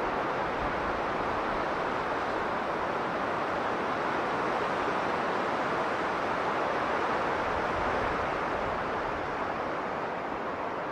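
Blizzard wind blowing strongly and without let-up, a dense rushing noise that swells a little past the middle and eases slightly near the end.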